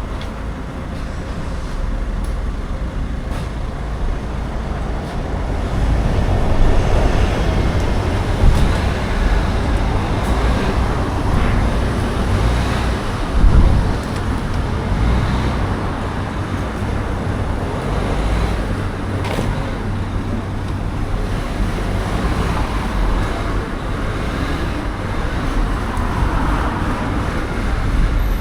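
Steady rumbling motor-vehicle noise, getting a little louder about six seconds in, with a brief louder surge near the middle.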